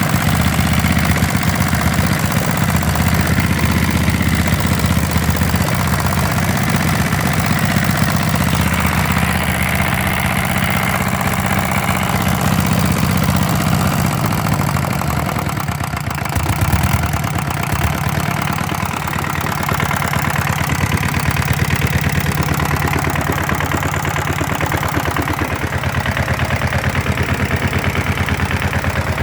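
Hatz diesel engine running steadily on test, with fast, even firing pulses. Its note shifts briefly about halfway through, then settles back to a steady run.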